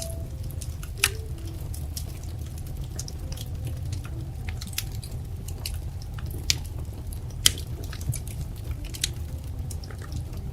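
Wood fire crackling: irregular sharp pops and snaps over a steady low rumble of the flames, with louder pops about a second in and again around six and a half and seven and a half seconds.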